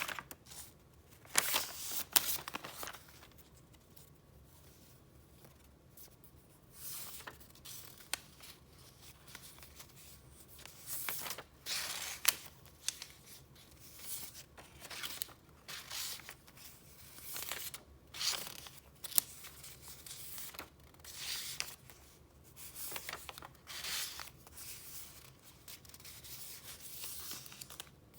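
Sheets of paper being handled and flipped through: a series of short, irregular rustles and swishes, with a quieter lull of a few seconds after the first couple.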